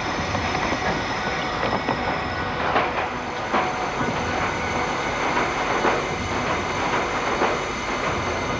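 Tornado wind blowing hard: a dense, steady rushing noise with scattered sharp knocks and clatters of flying debris.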